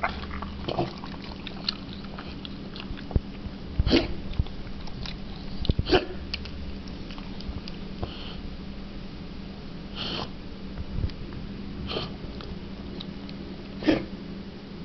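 Bulldog making short noisy snorting breaths through the nose every two seconds or so over a steady low hum, which the owner takes for reverse sneezing but fears could be something worse.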